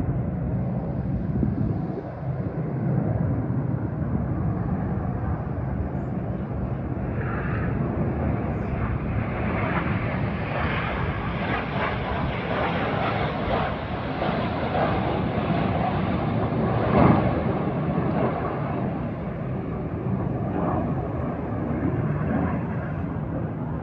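Aermacchi MB-339 jet trainers flying past, a continuous jet rumble that builds to its loudest about 17 seconds in and then eases off.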